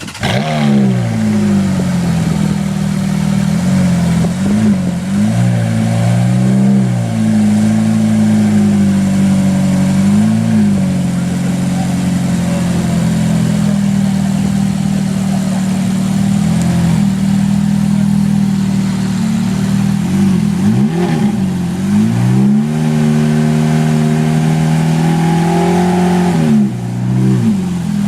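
Exotic sports car engine revved and held at a steady high pitch, its revs dropping briefly and climbing back several times.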